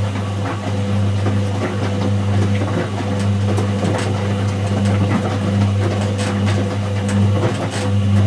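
Whirlpool AWG023 top-loading washing machine giving off a steady, low electrical hum, with light clicks and rattles over it.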